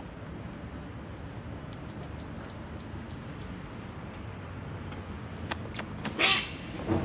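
A small bird chirping a quick run of high, evenly repeated notes, about two to four seconds in, over a steady outdoor background noise. A brief loud noise comes near the end.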